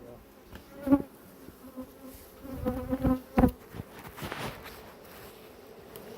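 Honeybees buzzing in a steady, low hum around an opened hive. A few sharp knocks come about a second in and around three seconds in.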